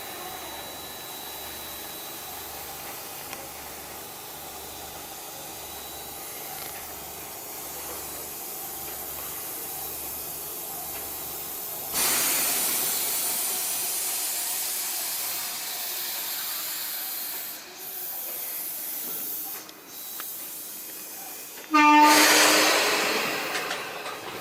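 Train sounds at a railway platform: a steady low hum, then a sudden loud hiss about halfway through that fades over several seconds. Near the end comes a brief, loud blast with a short tone that dies away quickly.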